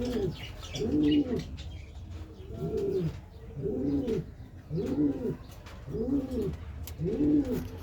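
Domestic pigeon cooing repeatedly, about once a second, each coo rising and then falling in pitch.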